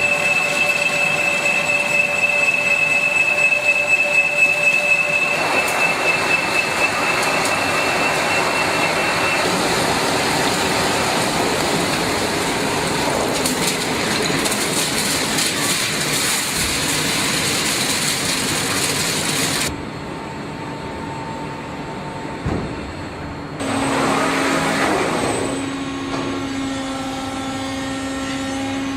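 CNC mill-turn machine cutting metal: a steady machining whine and hiss, with a high steady tone through the first third. About two-thirds of the way through the cutting noise drops away, and a few seconds later a lower steady hum starts up.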